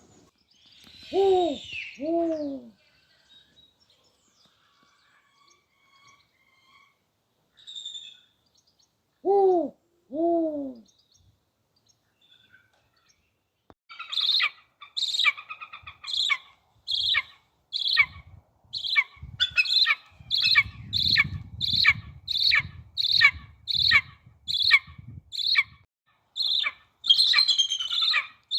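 An owl hooting: two pairs of short, falling hoots in the first half. After a pause, a second bird gives a fast run of sharp, high-pitched calls, nearly two a second.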